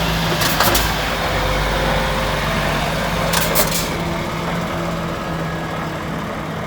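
Heavy truck engine running steadily with a constant low hum, with two short hisses, one about half a second in and one about three and a half seconds in.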